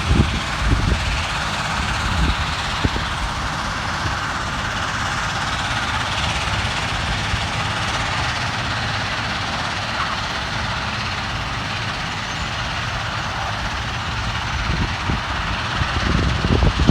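Steady roar of a heavy vehicle or machine over a low rumble, with a few knocks near the start and a louder surge near the end.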